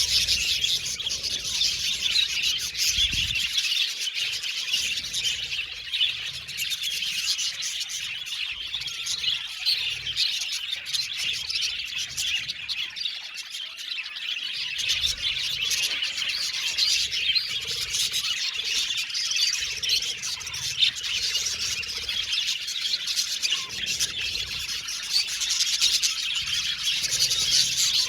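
A flock of budgerigars chirping and chattering continuously, many high twittering calls overlapping.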